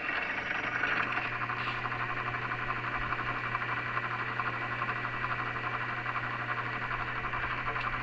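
Belt-driven drill press running steadily: electric motor hum under a hissing rush with a fast flutter from its drive belts and pulleys, belts dry enough to need belt conditioner.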